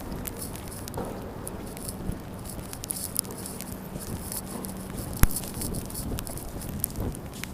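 Sleet pellets ticking and pattering irregularly, many small sharp clicks over a steady hiss, with one louder click about five seconds in.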